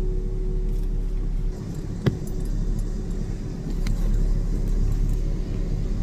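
Car driving, with a steady low rumble of engine and road noise and a sharp click about two seconds in.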